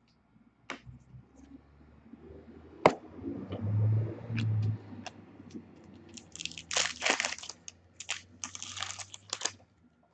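Trading cards and their plastic wrapping being handled. Scattered light clicks and taps, with a sharp tap about three seconds in, then several seconds of crinkling and rustling of plastic toward the end.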